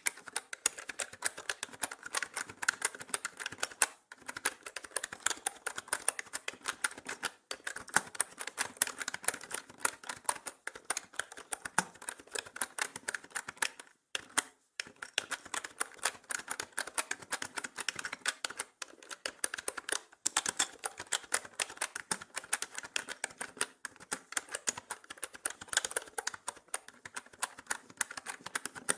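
Continuous fast typing on a mechanical keyboard: dense, rapid key clicks and clacks with a few brief pauses.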